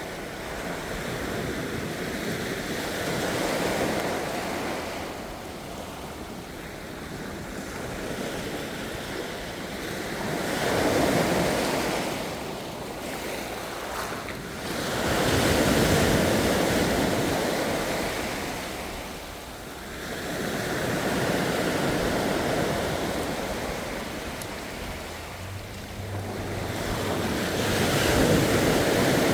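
Ocean waves breaking and washing ashore, the surf swelling and fading about every five or six seconds.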